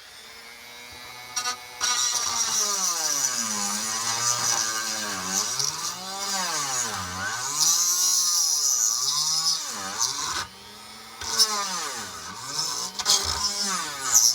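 Dremel rotary tool grinding out a rivet on a pressed-steel toy truck. Its motor whine dips and rises in pitch over and over as the bit bites into the metal, over a gritty high hiss, and it drops out briefly about ten seconds in.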